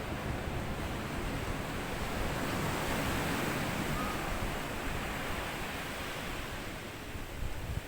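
Sea waves breaking and washing up a sandy shore, the surge swelling to its loudest a few seconds in and then ebbing away.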